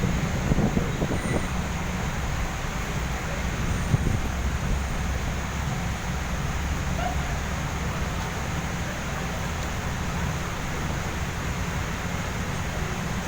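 Steady low rumble of road traffic with an even hiss of rain and spray, with one sharp knock about four seconds in.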